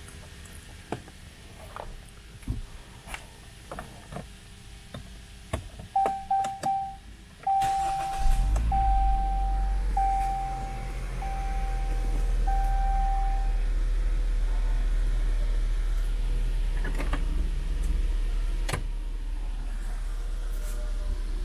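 A few clicks, then the Jeep Cherokee's dashboard warning chime sounds six times in even beeps while the engine cranks and starts about seven and a half seconds in. The engine then runs at a steady low idle, heard from inside the cabin.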